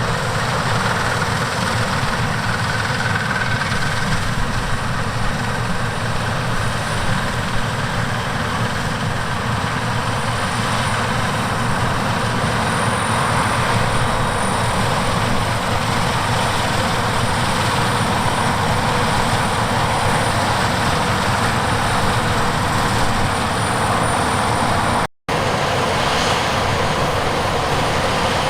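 Heavy harvest machinery running steadily under load, a diesel engine drone with dense mechanical noise, broken by a momentary gap about 25 seconds in.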